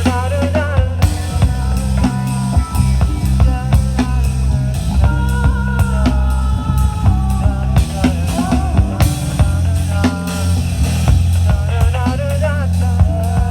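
A rock band playing live: a drum kit beats steadily under a loud bass, with a lead line of bending notes above.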